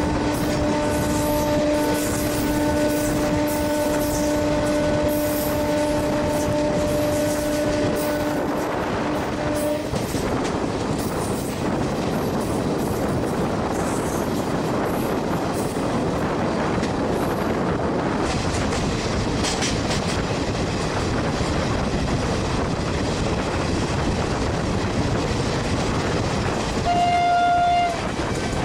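Passenger train running at speed, heard from an open carriage door or window, with steady noise of the wheels on the rails. A steady tone drops out about ten seconds in, and a short horn blast sounds near the end.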